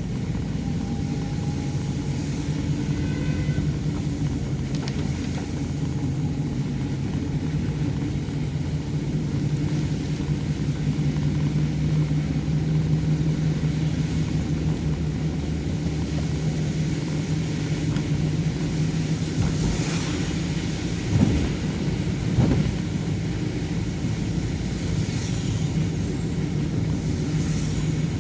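A vehicle's engine running steadily with a low hum, with two short thumps about three quarters of the way in.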